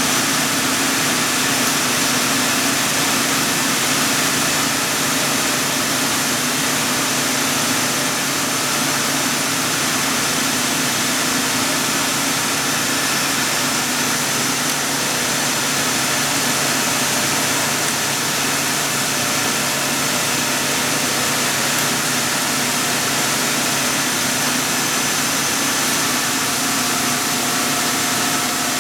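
Escomatic screw machine running steadily while machining: a continuous mechanical hum with a faint high whine over a constant hiss, a further tone coming in near the end.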